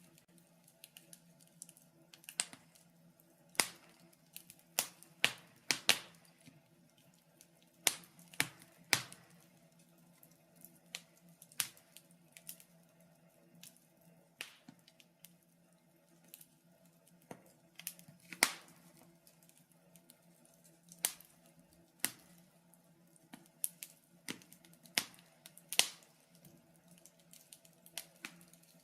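Wood fire in a fireplace crackling, with irregular sharp pops and snaps, sometimes several close together, over a faint steady hum.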